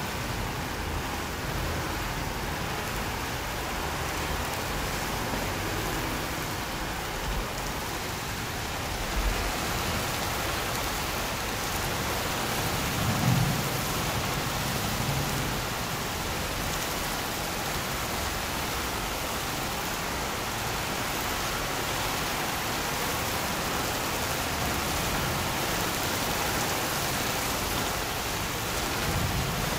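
Steady hiss of heavy rain, with a brief low rumble like thunder about thirteen seconds in.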